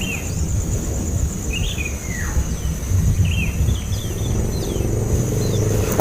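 Baby birds giving a few short, thin cheeps, several sliding down in pitch, over a steady low rumble of background noise.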